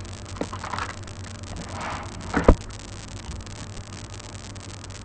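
Quiet room tone with a steady low hum, a faint click near the start and one short, sharp click about two and a half seconds in.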